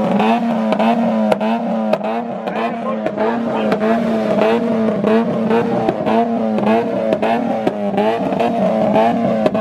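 Car engine held at high revs against a two-step launch-control rev limiter, its note steady with sharp pops and crackles about three times a second.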